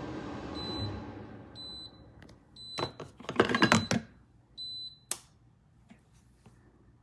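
An appliance's running noise dies away, then it beeps about five times, roughly once a second, at one high pitch. Several knocks and clatters come in the middle, and a sharp click follows a second later.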